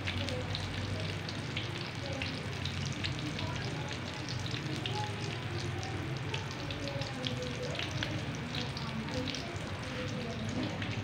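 Ilocos empanadas frying in hot oil: a steady sizzle scattered with many small crackling pops.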